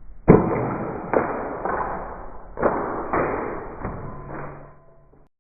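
A run of about six sudden thuds, each trailing off in a rushing noise, with a low steady tone coming in near the end before the sound cuts off abruptly.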